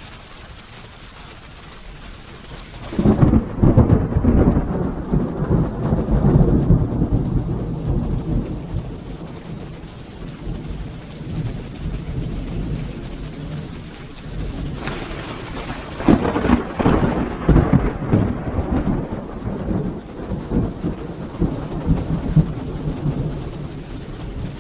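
Steady rain falling, with two long rolls of thunder: the first breaks about three seconds in and rumbles down slowly over several seconds, the second begins around the middle and rolls on, fading toward the end.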